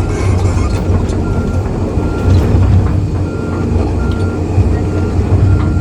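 Excavator's diesel engine running under load with a deep steady rumble as the machine moves. From about two seconds in, short high beeps repeat roughly once a second, typical of the machine's travel alarm.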